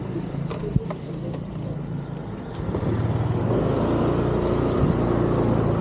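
Motorcycle engine running as the bike moves slowly, getting louder about halfway through as it picks up a little speed, with one sharp click about a second in.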